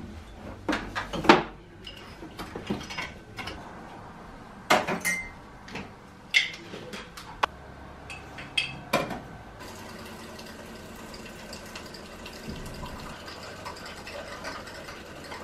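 Hard household objects handled and set down: a string of separate knocks and clinks, some with a short ring, over the first ten seconds or so, then only quieter handling.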